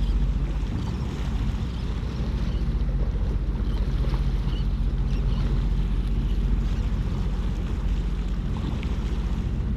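Jet ski engine running steadily at an even pitch, with water and wind noise.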